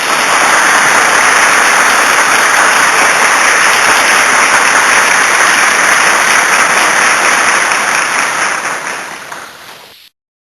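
Applause sound effect: a crowd clapping steadily, fading out near the end.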